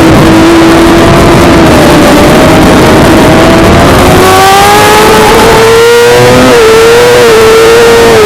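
Suzuki GSX-R600 inline-four engine running at high revs under a loud rushing noise, holding a steady pitch, then climbing from about halfway as the bike accelerates and easing off slightly near the end.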